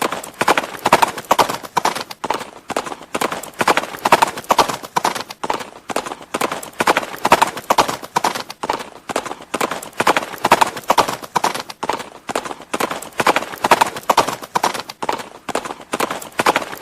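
Horse hooves clip-clopping on hard ground in a steady, unbroken rhythm of knocks.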